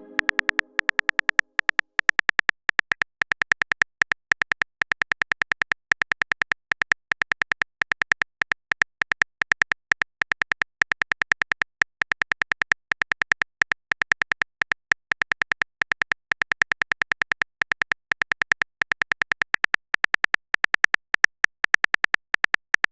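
Typing sound effect: a rapid run of short, even clicks, several a second with brief pauses between runs.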